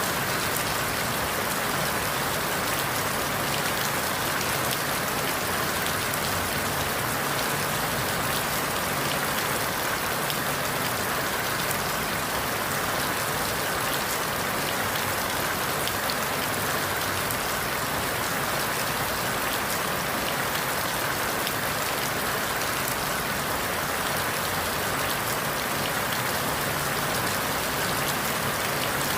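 Steady rain falling through forest leaves, a constant even patter with no breaks or sudden sounds.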